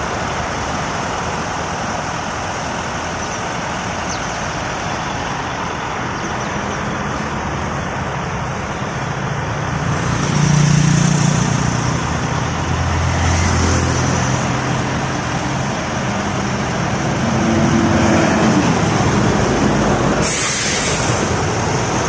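Scania R450 truck engine running steadily under way, with road noise. The engine note rises about halfway through, and a few short hisses come through, the loudest near the end.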